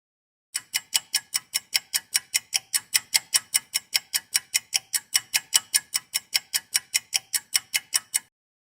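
Steady, evenly spaced ticking, about five sharp ticks a second, starting about half a second in and stopping abruptly near the end.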